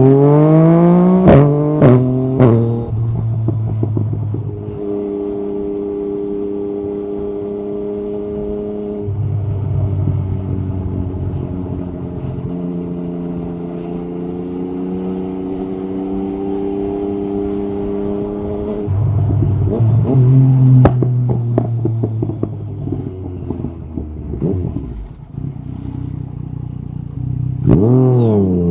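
Yamaha MT-09 SP three-cylinder engine through an Akrapovic carbon Racing-Line exhaust, revving hard and snapping through quick upshifts with sharp cracks at the start. It holds a steady cruise for most of the time, then rolls off with cracks and falling revs around two-thirds of the way through, and picks up again near the end.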